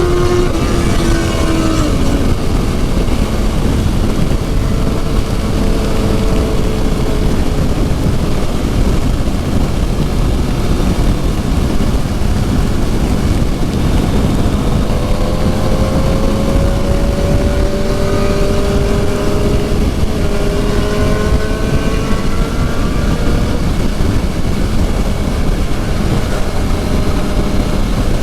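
Suzuki GSX-R750's inline-four engine running under way, its note dropping about two seconds in, climbing slowly again around the middle and easing off after that, under heavy wind noise on the microphone.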